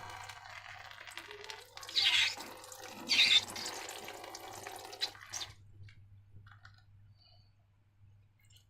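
Liquid pouring and dripping, with two louder wet gushes about two and three seconds in, then trailing off to a few faint drips.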